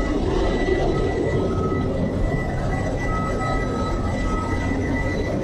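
Steady, loud din of a ship's engine room at sea, with the main engine, generators and auxiliary machinery all running: a dense low rumble with a couple of faint steady whines over it.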